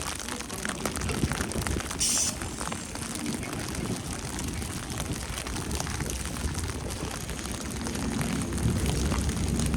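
Outdoor ambience on a snowy walk: a steady low rumble with scattered light crackling, a short hiss about two seconds in, and the rumble growing a little stronger near the end.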